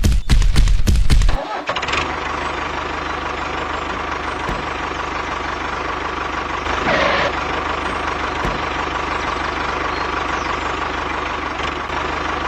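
A small machine's motor running steadily with a constant whine, after loud music cuts off about a second in.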